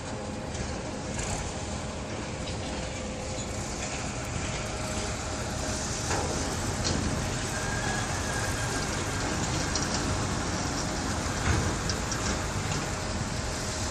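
Freight train of boxcars rolling along the track, a steady rumble of wheels on rail with a few knocks, the loudest near the end.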